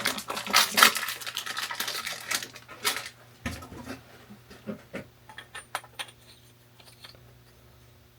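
Galvanized steel pipe fittings clinking and clattering as they are handled and fitted together: a dense run of metal knocks for the first few seconds, then scattered single clicks that thin out.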